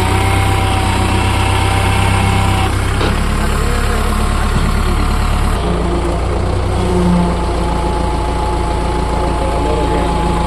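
Kubota MU4501 tractor's diesel engine running steadily, its note shifting about three seconds in and again near six seconds.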